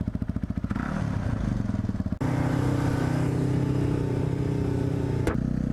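Dirt bike engine chugging at a low, pulsing idle, then revving up about a second in and running at a steady, higher speed. A sharp click comes near the end, and the engine note drops after it.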